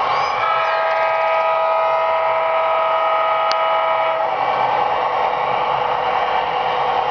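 HO-scale model diesel locomotive's onboard sound system sounding a multi-note air horn, one blast held for about four seconds, over the steady running noise of the model on the track.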